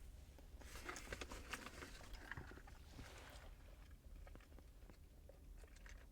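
A person chewing food close to the microphone: soft, wet clicking and crackling mouth sounds, busiest in the first half and fainter after.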